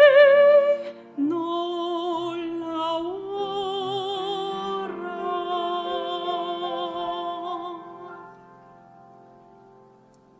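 The close of a sung cantata number: a singer holds the last note with vibrato and breaks off about a second in. Sustained chords with vibrato follow and die away over the last few seconds.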